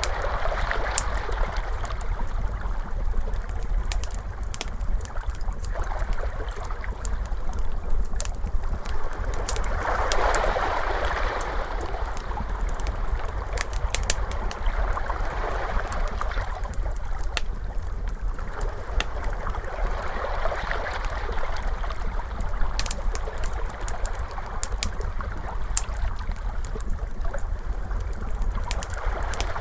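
Ocean waves washing in, swelling and ebbing every few seconds over a low rumble, mixed with a wood fire crackling in many small sharp pops.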